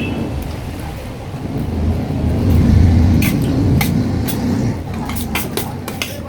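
A motor vehicle going past: a low engine rumble that swells about two to three seconds in and then fades. A few sharp clicks follow in the second half.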